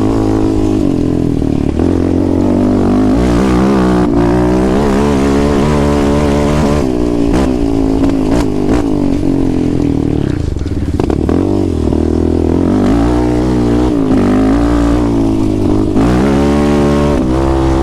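ATV engine heard from on board while being ridden hard, its revs climbing and dropping back again and again as the throttle is worked and gears change.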